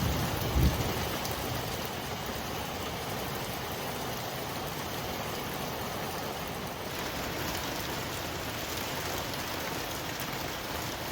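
Steady rain falling, an even hiss of drops, with one brief low thump about half a second in.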